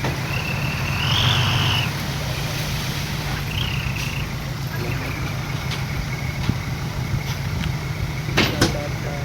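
Diesel engine of heavy earthmoving machinery running steadily, swelling briefly about a second in. Short high squeals come and go over it, and there are a couple of clicks near the end.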